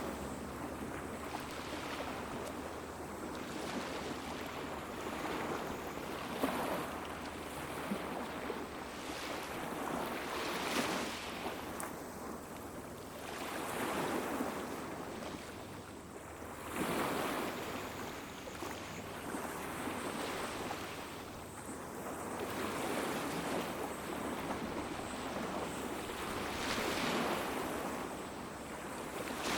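Small waves washing onto a beach, in surges every three to four seconds.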